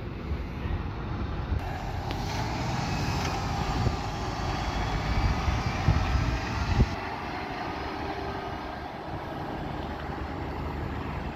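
A motor vehicle passing, with wind rumbling on the microphone until it drops away abruptly about seven seconds in.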